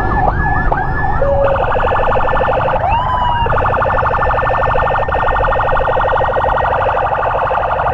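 Electronic emergency siren, first in quick repeated rising whoops, about three a second, then switching about a second and a half in to a fast pulsing tone, with one short rising glide a little later. A low rumble of road and engine noise runs underneath.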